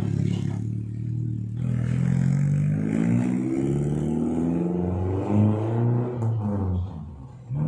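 Suzuki Futura pickup's engine revving through an aftermarket racing exhaust. The pitch climbs about two seconds in, holds high with a couple of brief dips, then falls back toward idle near the end.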